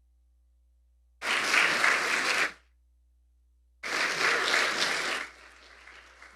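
Congregation applauding in two short bursts of about a second and a half each, both starting and stopping abruptly; the second trails off into fainter clapping near the end.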